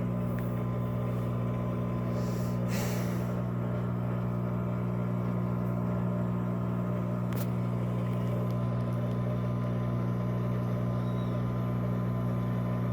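Electrolux Turbo Economia 13 kg (LAC13) top-loading washing machine running with a steady, even hum, a single faint click about seven seconds in.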